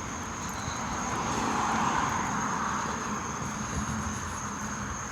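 A passing vehicle: a broad rushing noise that swells to a peak about two seconds in and then fades away.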